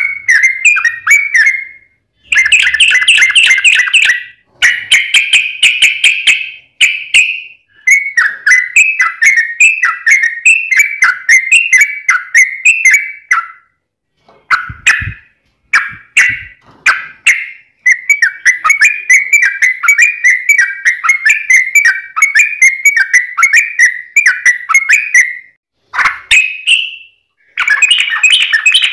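Yellow-vented bulbul (trucukan) singing long runs of rapid, bubbly chattering notes, several seconds at a stretch with brief pauses between them. A couple of low knocks come about halfway through.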